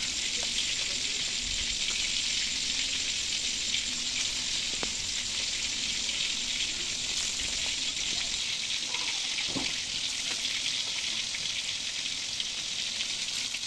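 Red-lentil fritters (masoor dal bora) deep-frying in hot oil in a metal pan: a steady sizzle.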